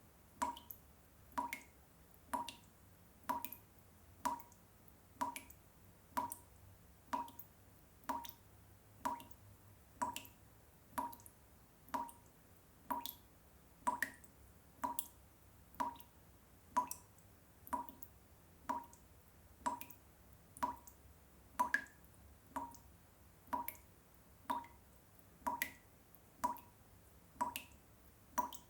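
Water drops falling into water one after another, a steady plink about once a second, each with a short rising pitch.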